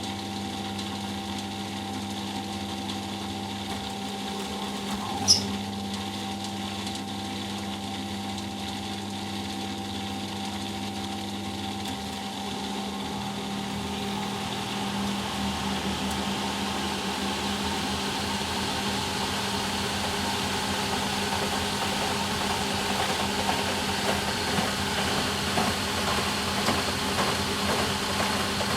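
Eudora Sparmeister 702 washing machine in its final spin: the motor and drum run with a steady hum. A sharp click comes about five seconds in, and over the second half the spin noise grows gradually louder.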